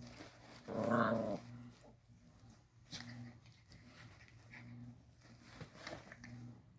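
A dog growling in low, repeated stretches, with one louder growl about a second in.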